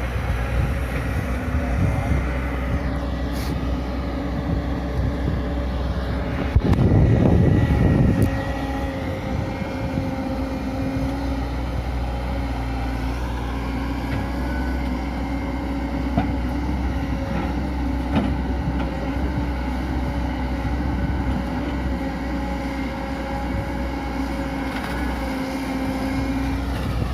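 Excavator's diesel engine running steadily. About seven seconds in, a louder rushing burst of noise lasts a second or two.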